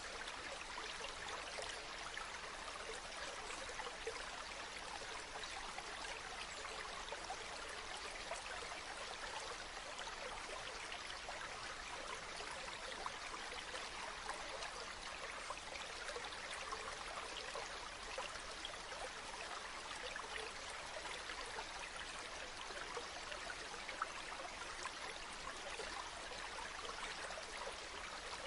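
Running water flowing steadily, a continuous rush with fine splashing and trickling detail throughout.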